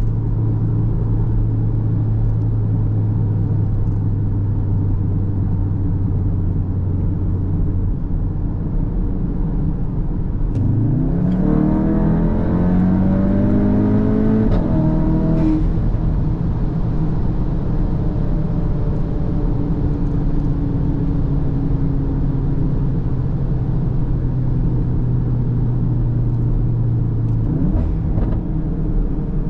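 Cupra Formentor's turbocharged 2.0 TSI four-cylinder engine and exhaust, heard from the driver's seat. It cruises with a steady drone, then about ten seconds in it accelerates hard, the pitch climbing until it drops at a gear change. It settles back to a steady cruise and picks up again near the end.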